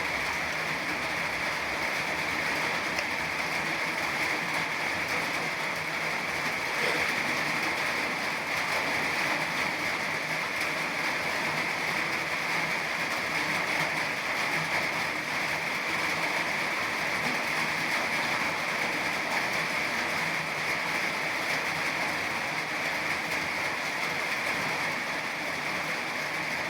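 Steady rain falling, an even hiss of water that keeps the same level throughout.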